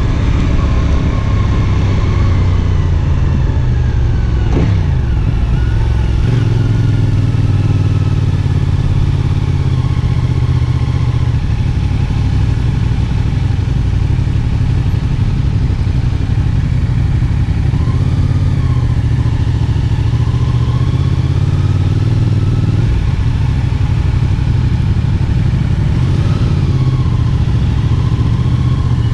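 CFMoto 450SR S motorcycle's parallel-twin engine running steadily while being ridden, its pitch dipping and rising a few times with the throttle.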